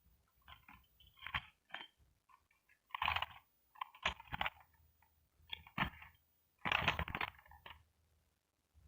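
Plastic being handled: irregular bursts of crinkling and clicking, five or six of them with short pauses between.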